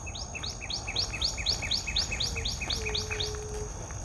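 A songbird singing a rapid run of short, rising whistled notes, about four a second, which stops about three seconds in. A faint steady low tone sounds under its last notes.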